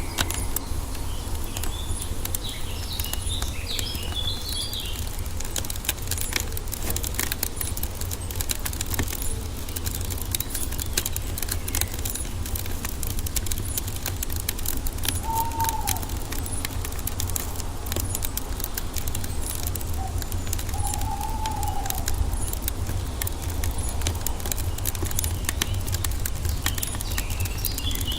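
Wood fire crackling with a continual run of small pops over a steady low rumble. Birds chirp a few seconds in and again near the end, and two short whistled bird calls sound in the middle.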